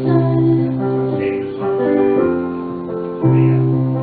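Electric keyboard playing a Christmas song in sustained piano-like chords that change every second or so, with a sung word at the start.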